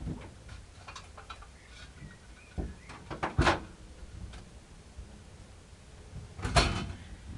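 A few scattered clicks and knocks, with two louder clunks about three and a half and six and a half seconds in; no engine is running.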